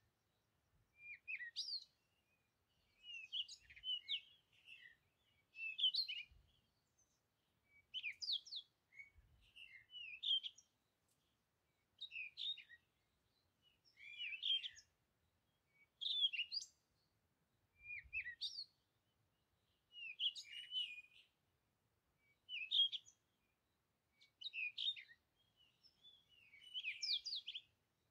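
Birds chirping in short, bright phrases of quick gliding notes, one phrase every second or two with brief quiet gaps between.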